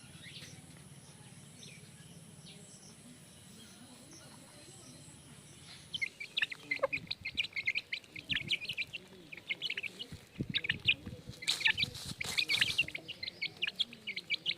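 Aseel chicks peeping: a dense run of short, high chirps that starts about six seconds in, after a stretch of near silence.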